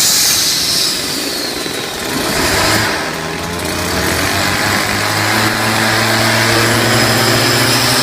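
Homemade jet engine running down, its high turbine whine falling in pitch, then a steady machine hum with a faint high whine takes over about two and a half seconds in.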